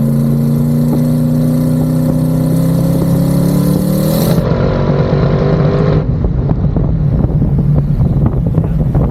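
Twin-turbo LS V8 engine of a Pontiac G8 accelerating hard, its pitch rising steadily for about four seconds, then turning abruptly rougher and more ragged. This is a pull under boost in which the owner reports that the engine is still breaking up.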